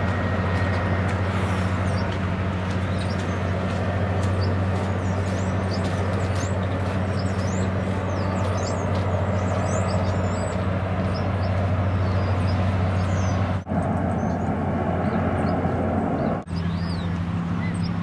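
Steady outdoor noise with a constant low hum, like distant traffic, and scattered short high chirps; it drops out briefly twice near the end.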